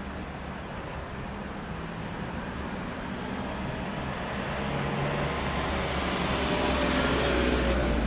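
EF210 electric locomotive hauling a container freight train, approaching and growing steadily louder. Wheels rumble on the rails, and a whine of several steady tones comes in over the last few seconds as it nears.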